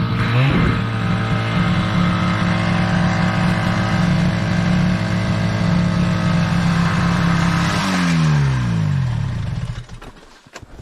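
Snowmobile engine running steadily at high revs under throttle. About eight seconds in the throttle is let off and the revs fall away, and the engine sound fades out near the end.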